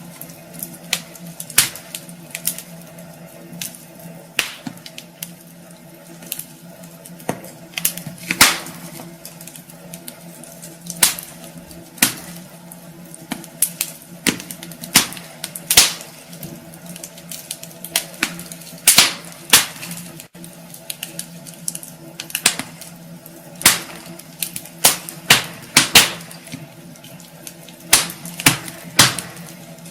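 Wood fire in a fireplace crackling: irregular sharp pops and snaps, sometimes several in quick succession, over a low steady hiss.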